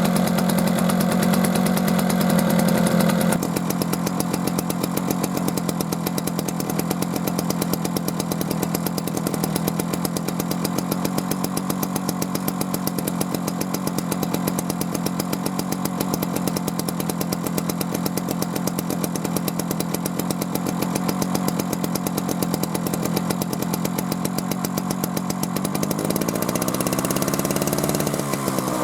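Old Gasuden two-stroke stationary engine running steadily with a fast, even beat. It gets a little quieter about three seconds in, and a rising tone shows up near the end.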